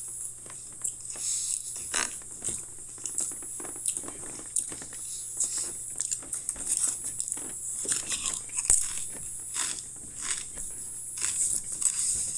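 Someone biting and chewing Pringles Texas BBQ Brisket potato crisps, with irregular crunches throughout.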